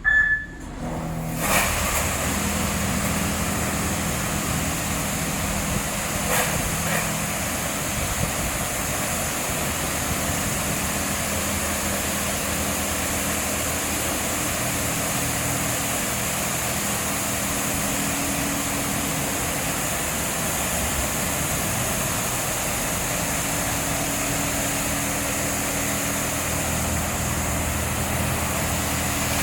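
Leisuwash 360 touchless car wash spraying high-pressure water jets: a steady hiss of spray with the pump's hum under it. The spray starts about a second in, after a short electronic beep.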